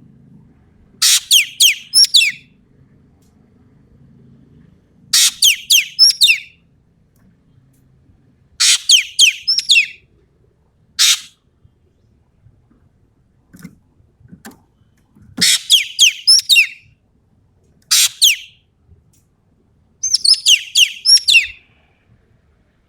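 Sumatran ekek keling calling in repeated loud bursts, each a rapid string of sharp, high, falling notes about a second long, with pauses of a second or two between bursts. This is the rapid-fire 'tembakan' call used as mastering material for other songbirds.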